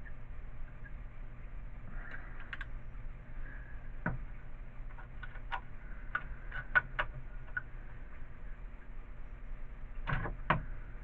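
Scattered light clicks and taps of a heated gun's tip and nails being worked against a plastic snow-shovel blade, with two sharper knocks near the end, over a low steady hum.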